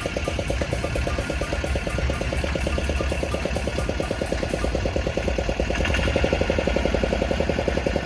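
An engine running steadily at an even speed, with a rapid, regular beat.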